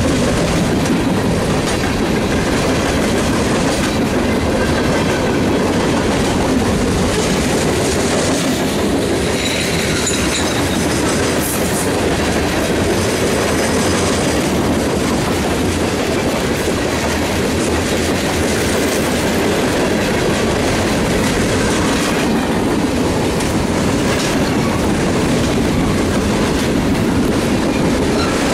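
Freight train's hopper and tank cars rolling past at close range: loud, steady noise of steel wheels on the rails.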